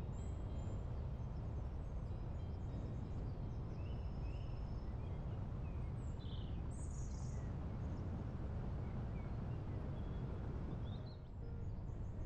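Steady low wind noise with scattered short bird chirps and calls over it; the wind drops briefly near the end.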